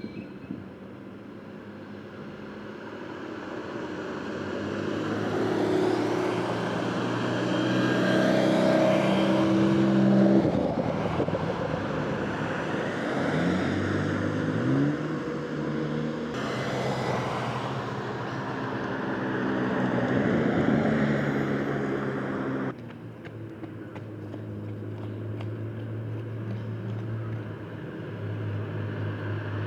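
Sports car engines driving past at low speed, each growing louder as it nears and fading as it goes by. About halfway through, one engine's revs briefly rise. A sudden cut a little after two-thirds of the way through switches to a quieter, steady engine note.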